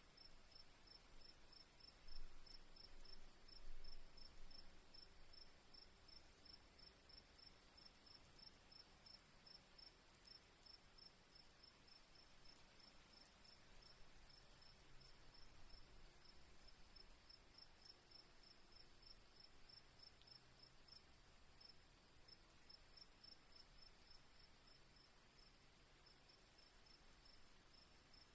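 Crickets chirping faintly: a steady, regular pulse of short high chirps over a continuous higher-pitched insect trill. A couple of brief low bumps come between about two and four seconds in.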